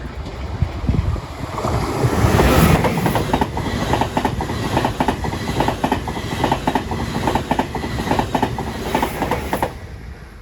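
A train passing through the station, its wheels clacking rapidly and evenly over the rail joints. It swells to its loudest about two seconds in and cuts off shortly before the end as the last car goes by.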